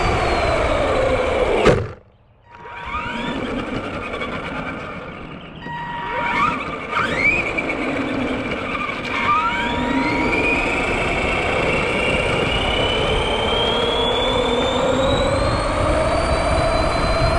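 Electric motor whine of an RC monster truck, falling in pitch and cutting out about two seconds in, then rising in short spurts as it is throttled, and climbing slowly and steadily in pitch through the second half.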